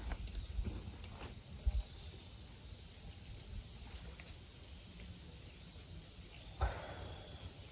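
Quiet forest ambience with birds giving a few short, high chirps, and two soft thumps, one about two seconds in and one near the end.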